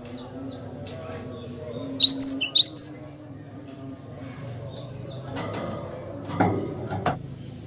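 Cinereous tit (gelatik batu) calling: a quick run of four loud, sharp, high chirps about two seconds in, with softer chirps around it. A steady low hum runs underneath, and two short knocks come near the end.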